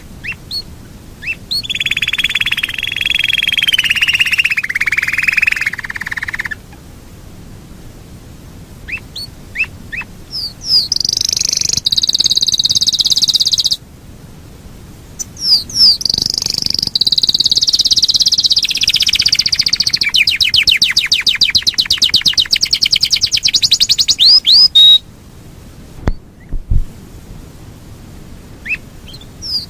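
Yorkshire canary singing: rolled, trilling song phrases broken by short chirps, with a long fast roll in the second half that stops abruptly near the end.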